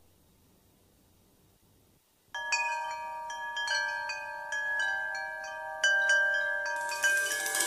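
Near silence for about two seconds, then ringing chime tones struck one after another, each note sustaining and overlapping the next, as the opening of background music.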